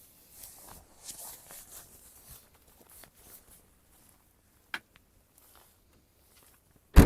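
Soft rustling and handling noises, a single sharp click a little before five seconds in, then one loud thump at the very end.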